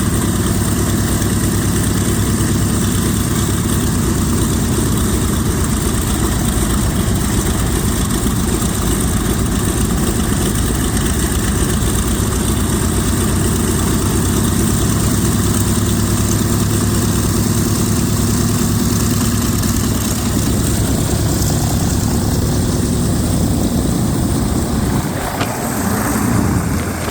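F4U Corsair's 18-cylinder Pratt & Whitney R-2800 radial engine running steadily on a ground run. Its deep rumble thins out near the end.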